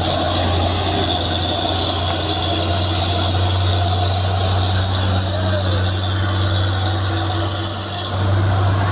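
Truck engine running with a steady low drone, on a hill climb.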